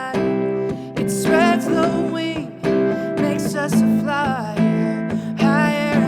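Acoustic guitar playing with a woman singing, her voice sliding and wavering in pitch on held notes.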